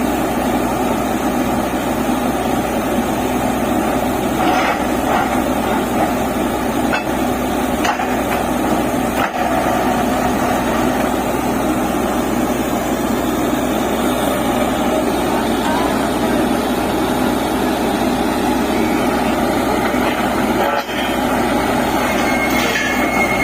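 Borewell drilling rig running steadily with a loud, continuous machine noise, dipping briefly twice.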